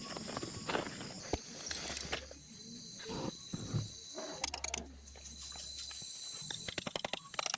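Steady high insect drone with scattered clicks and knocks, thickening into a quick run of clicks near the end.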